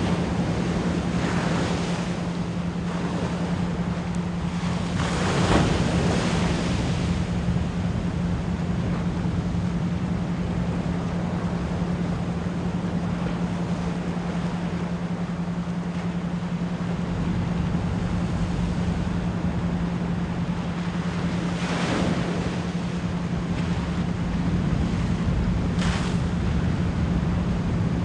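Ocean waves washing in a steady hiss, with a few louder swells breaking (the strongest about five seconds in), over a constant low 174 Hz pure tone.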